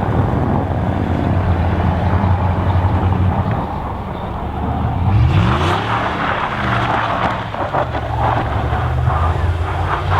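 Car engine running steadily, revving up and dropping back about five and a half seconds in, with a rushing hiss building alongside as the car drives through snow.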